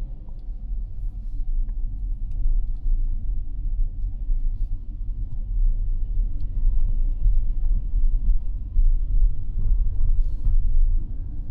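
Low road and tyre rumble from a Mazda 6e electric sedan on the move, growing louder over the first few seconds.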